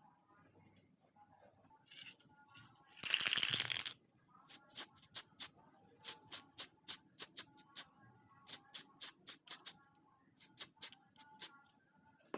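A short loud spray hiss, then the restored steel hand pruners clicking sharply, about three to four times a second, as the blades are snapped open and shut again and again.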